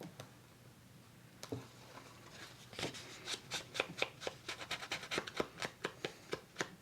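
Quick repeated strokes on paper, about five a second, starting about two and a half seconds in after a few scattered light clicks.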